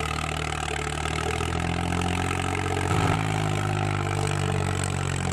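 An engine idling steadily with a low, even hum, its pitch shifting slightly about halfway through.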